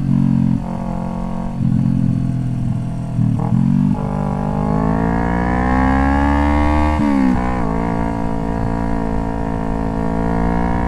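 Motorcycle engine under acceleration: its pitch climbs steadily for about three seconds, then drops sharply with a gear change about seven seconds in and settles into steady cruising. Shorter rises and dips come earlier.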